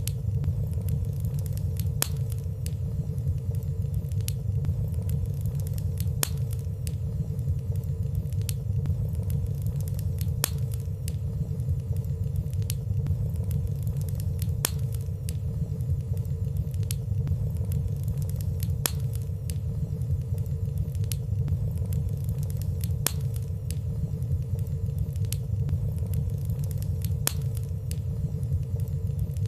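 Wood fire burning steadily in a fireplace: a constant low rumble of flames with faint, scattered soft crackles and no loud pops.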